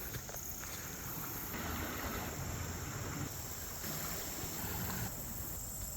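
Steady, fluctuating low rumble of wind buffeting a phone's microphone, with a faint even hiss above it.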